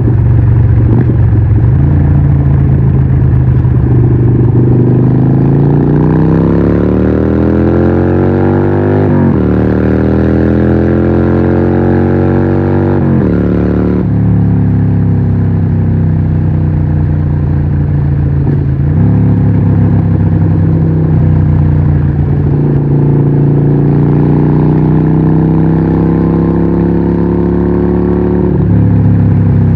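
Harley-Davidson 1200 Nightster's Evolution V-twin through a Vance & Hines exhaust, pulling hard with its pitch climbing, dropping sharply at each gear change (three times in the first twenty seconds), then running at a steady, slowly rising pace until another drop near the end.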